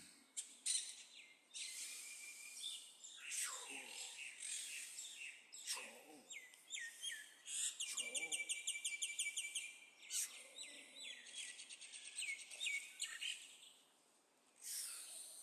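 Small songbirds chirping and trilling, many calls overlapping. The densest stretch, about halfway through, is a fast, even trill of rapidly repeated notes. The birdsong thins out near the end, with one last short burst.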